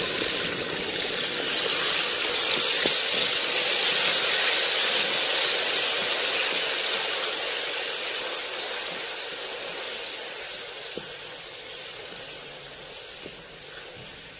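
Tomato paste sizzling loudly as it hits hot oil in a large aluminium pot, the water in the fresh paste boiling off. The sizzle holds steady, then slowly dies down over the second half.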